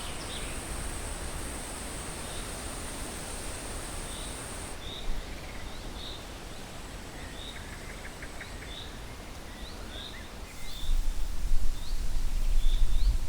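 Outdoor countryside ambience with a bird giving short chirps over and over, and a high steady buzz that stops about five seconds in. Near the end a low rumble comes in and the level rises sharply.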